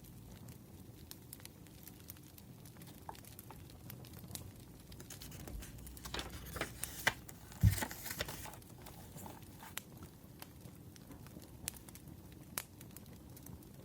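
Wood fire crackling softly with scattered small pops. Partway through comes a short flurry of rustling and clicks ending in a soft thump.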